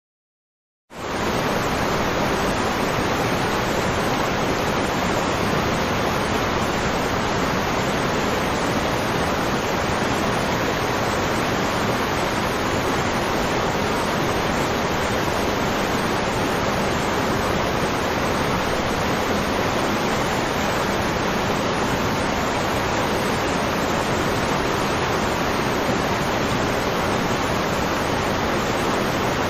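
Waterfall: a steady, unbroken rush of falling water that starts abruptly about a second in.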